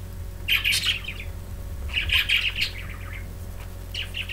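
Several pet budgerigars chirping and chattering in short bursts, a flurry about half a second in, another around two seconds in and a shorter one near the end. This is the flock's morning calling on waking.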